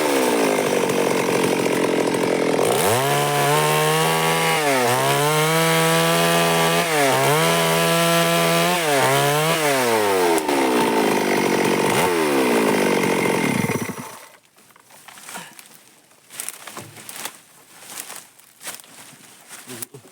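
Stihl MS 382 two-stroke chainsaw cutting through wood, its revs repeatedly dropping under load and rising again. The engine winds down and stops about two-thirds of the way through, leaving a few light knocks and rustles.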